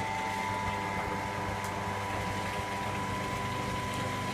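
Electra AWF683 front-loading washing machine running mid-cycle: a steady mechanical hum with a high, even whine over it.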